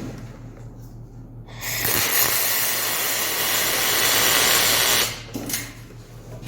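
Aluminum MIG welding with a spool gun: a steady hissing arc that strikes about one and a half seconds in and cuts off about five seconds in, over a low electrical hum.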